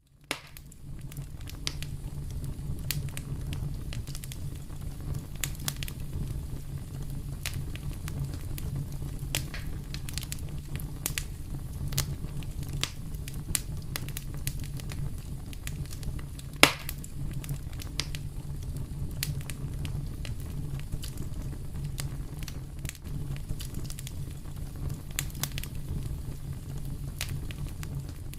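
Wood fire crackling in a fireplace: a steady low rumble of flame with frequent sharp crackles and pops, and one loud pop a little past halfway.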